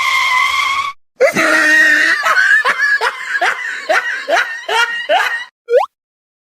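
A voice laughing in a quick run of about ten short rising cries, after a steady held tone in the first second, with one short rising squeak near the end.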